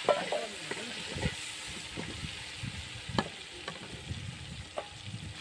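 Chopped tomatoes and garlic sizzling in hot ghee in a karahi, with a metal spatula stirring and clicking sharply against the pan a few times.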